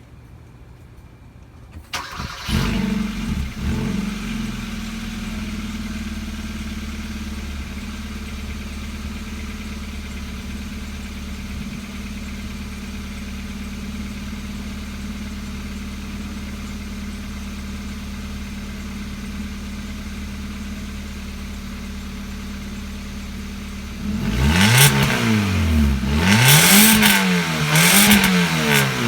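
A 2013 Kia Rio's engine starts about two seconds in, through an exhaust with one catalytic converter and the resonator removed. It flares and settles to a steady idle, then near the end is revved up and down about three times.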